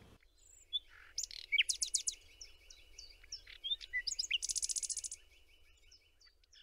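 Several songbirds singing and calling at once. A long, even trill runs under a mix of short whistled chirps, with a fast run of high notes about two-thirds of the way through.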